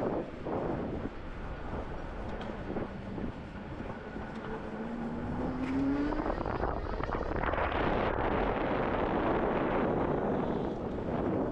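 Electric motorcycle on a test ride: a short rising motor whine as it accelerates, then a broad rush of wind and road noise that swells for a few seconds.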